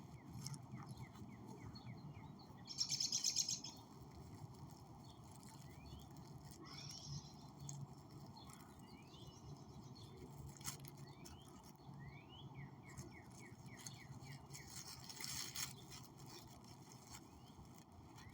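Small birds chirping outdoors, short rising chirps scattered throughout over a faint steady low hum. About three seconds in comes a loud hissing rasp lasting about a second, and a softer one comes near the end.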